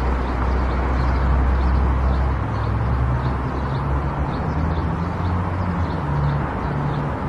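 Car driving noise: a steady low engine and road rumble with tyre noise, whose low drone shifts in pitch about two and a half seconds in. A faint, light ticking repeats about three times a second.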